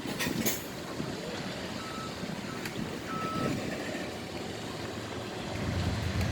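Outdoor vehicle noise with two short electronic beeps. A low, steady engine rumble comes in about five and a half seconds in.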